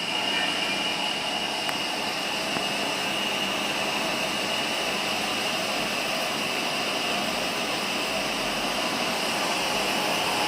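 TCK40P slant-bed CNC lathe running, a steady high whine over a hiss that comes up sharply at the start and then holds even.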